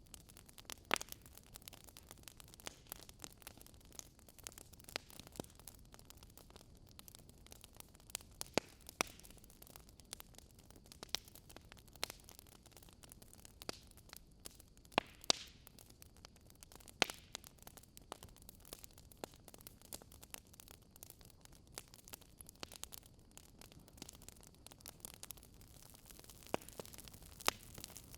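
Campfire crackling: irregular sharp pops and snaps of burning wood over a faint steady hiss.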